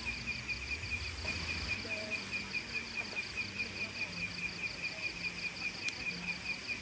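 Insect chirping in a steady, even pulse of high, thin notes, about five a second, typical of a cricket or katydid.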